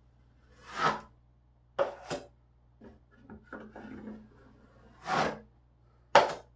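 Hand tool worked in short rasping strokes across a drywall patch: about five main strokes with fainter scraping between them.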